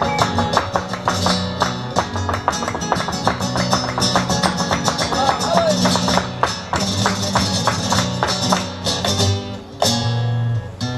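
Flamenco music played live on acoustic guitar, strummed in a quick, steady rhythm, with a brief drop about nine and a half seconds in before a loud held chord.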